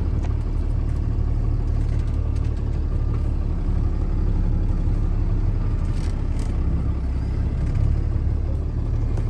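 A 2013 Ford F650 medium-duty truck's engine running steadily with a low rumble.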